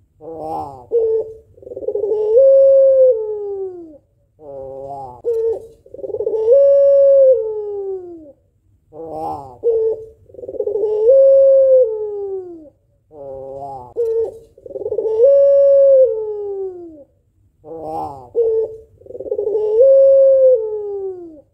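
White Barbary dove (puter pelung) hen cooing, a hen calling to a male. She gives five calls about every four seconds, each a short stuttering note running into one long drawn-out coo that rises, holds and then falls away.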